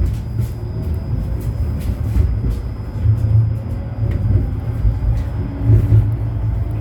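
71-911EM "Lvyonok-M" low-floor tram running between stops, heard from inside the passenger cabin: a steady low rumble from the wheels and running gear on the track that swells and eases, with a faint steady high whine above it.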